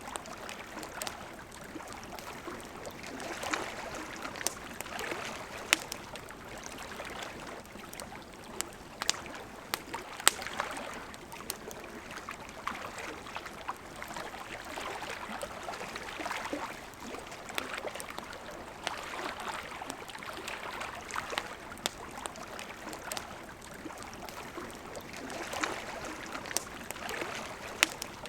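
A river flowing steadily, with wood fire crackle: scattered sharp pops and snaps, a few louder than the rest.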